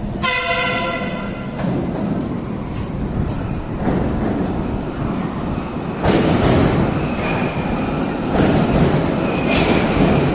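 Moscow Metro train sounding a short horn blast for about a second and a half, then rumbling along the track with clattering wheels. The rumble grows louder about six seconds in.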